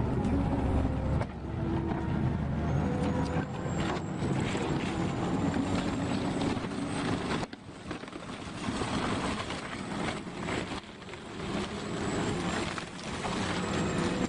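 Heavy construction machine's engine running steadily, with a few sharp knocks; the sound changes abruptly about halfway through, as a different machine comes in.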